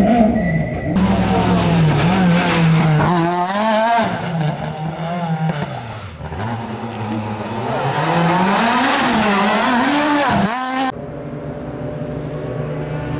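Rally cars running hard on a stage, engines revving up and dropping back again and again with gear changes and lifts. The sound changes abruptly a few times, ending on a lower, steadier engine note.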